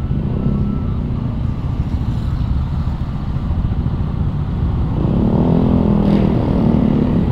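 Road traffic noise with a steady low rumble. About five seconds in, a motorcycle engine rises in pitch and gets louder as it accelerates.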